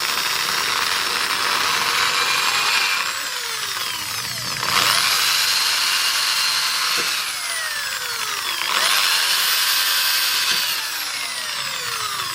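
Handheld electric power tool running in three bursts, its whine climbing as it speeds up and sliding down in pitch as it slows after each.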